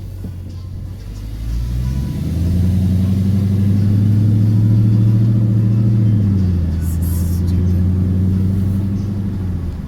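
Car engine with a deep, low-pitched sound, revving up about two seconds in, holding there for a few seconds, then easing back off to a lower, steadier run.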